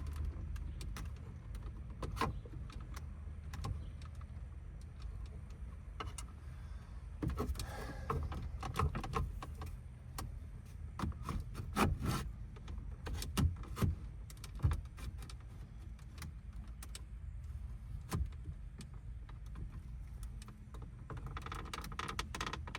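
Scattered clicks, taps and light rattles of the truck's plastic dashboard trim and instrument cluster being handled and pried at by hand, heaviest in two spells in the middle, over a steady low hum.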